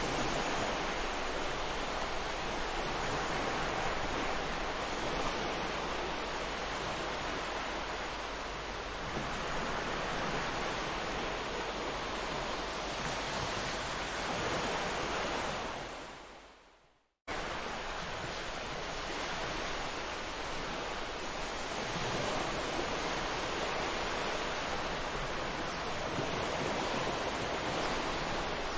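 Sea surf washing onto a beach, a steady rushing that swells and eases. About two-thirds of the way through it fades out to a moment of silence, then cuts abruptly back in, as at an edit point.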